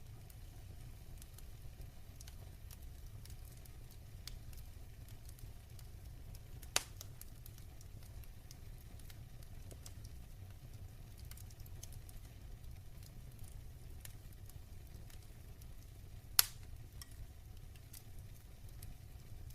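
Wood fire in a fireplace burning low toward embers: faint, sparse crackling over a steady low rumble, with two sharp loud pops, one about seven seconds in and one about sixteen seconds in.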